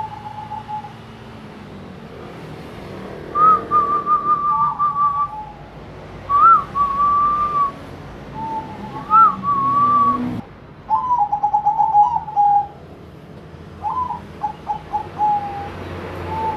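Two zebra doves (perkutut) cooing against each other in a calling contest: a series of clear whistled coo phrases, some overlapping, with quick stuttering rolled notes in the later phrases.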